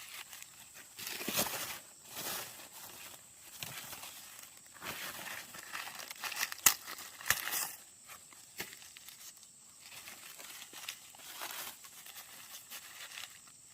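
Dry plant material rustling, crackling and tearing in short irregular bursts, with a few sharp snaps; the loudest snap comes a little past the middle.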